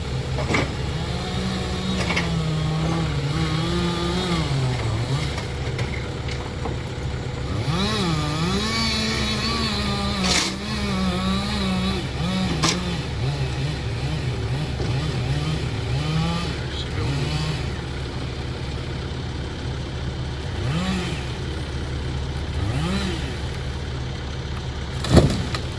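Gasoline chainsaw running and cutting, its engine pitch rising and sagging repeatedly as the chain bites into wood, over a steady low drone. A single sharp knock near the end.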